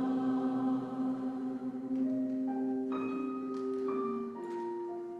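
Church choir with instrumental accompaniment on a sung hymn response, holding a chord and then moving through a few sustained notes that change one at a time, fading slightly at the end.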